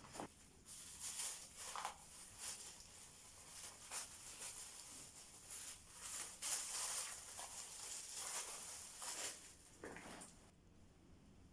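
Irregular rustling and light handling noises, with a few short clicks and knocks, as things are picked up and moved about while tidying a room; they stop near the end.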